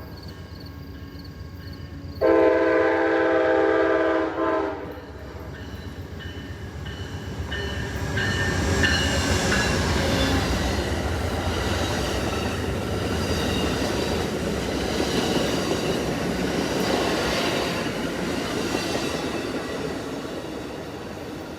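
Amtrak GE Genesis diesel locomotive sounding its multi-chime air horn in one long blast about two seconds in, then the passenger train passing, the noise of engine and wheels on rail building to its loudest midway and fading toward the end.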